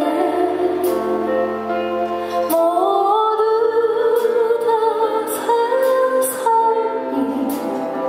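Live music: a woman singing a Korean winter song with instrumental accompaniment, holding long notes over a steady bass line.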